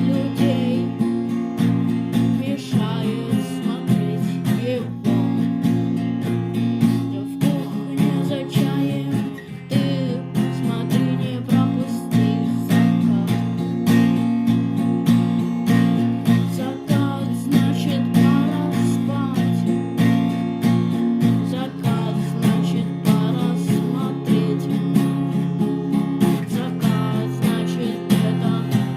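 A song played on strummed acoustic guitar, with steady chords throughout.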